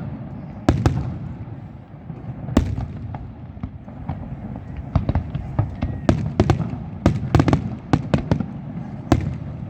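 Aerial fireworks bursting: a single bang just under a second in, another at about two and a half seconds, then a rapid volley of bangs from about five to eight seconds, each echoing over a rumbling background.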